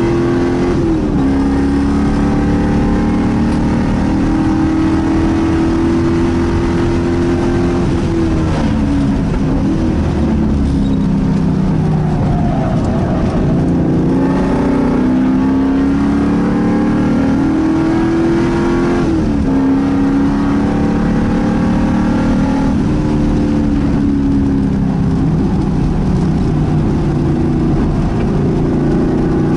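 A 1995 Pontiac Firebird's engine, heard from inside the cabin at speed on a road course. Its pitch climbs steadily as the car accelerates and falls away as it slows, over a long stretch about a third of the way in and in a sharp drop about two-thirds of the way through.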